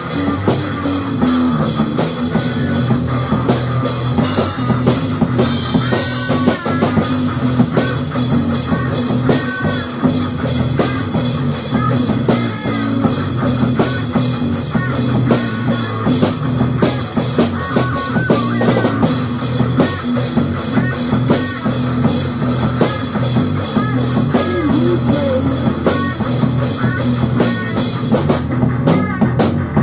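Rock music without vocals: a full drum kit and guitar playing steadily, with a lead line bending up and down.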